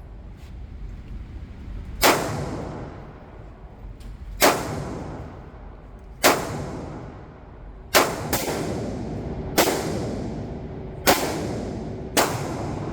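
Gunshots at a shooting range: eight shots spaced about a second and a half to two seconds apart, with two fired close together about eight seconds in. Each shot is sharp and trails off in echo.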